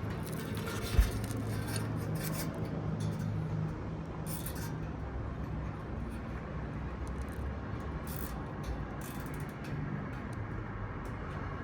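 Zip ties being handled and pulled through around wires on a condenser fan grille: several short rasping bursts and a single sharp knock about a second in, over a steady low hum.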